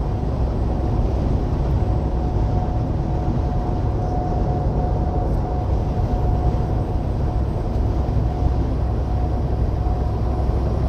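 Steady low rumble of a semi-truck cab at highway speed, engine and road noise together, with a faint steady whine.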